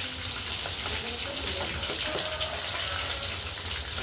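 Battered chicken-wing fritters frying in hot oil in a wok: a steady sizzle with fine crackles.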